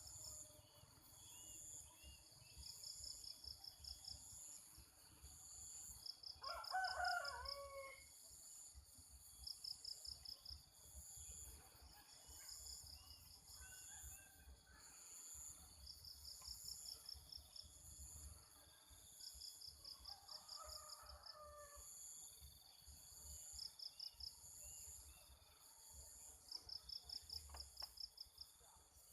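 Faint rural ambience: crickets or other insects chirping in short pulsed trills every few seconds over a steady high insect hiss. A rooster crows about seven seconds in, and another crow comes more faintly around twenty seconds.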